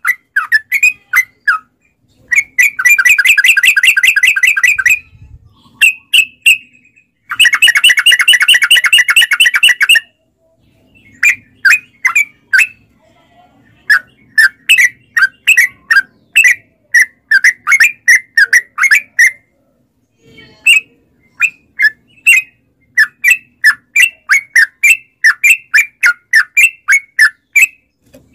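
Yellow-vented bulbul (trucukan) song: bursts of short chattering notes, with two long rapid rolling trills early on, then quick runs of short notes with brief pauses.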